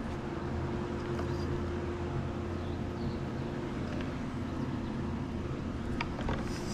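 Swimming pool pump motor running with a steady hum while the pool is vacuumed, with a couple of light clicks near the end.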